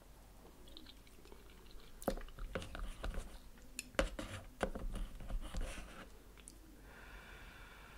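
Close-miked, wet chewing of a mouthful of instant cup noodles, with sharp clicks of chopsticks against the cup. The loudest click comes about four seconds in.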